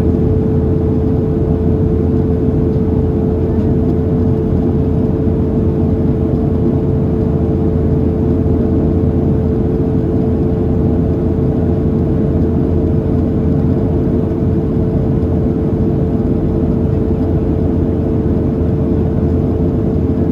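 Steady cabin noise inside a Boeing 737-700 in flight: the low roar of its CFM56-7B turbofan engines and the airflow over the fuselage, with one steady hum running through it.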